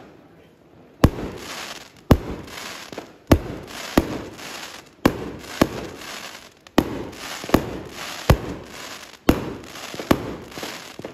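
Aerial fireworks going off in quick succession: about a dozen sharp bangs, roughly one a second, each followed by a short crackling tail from the bursting stars.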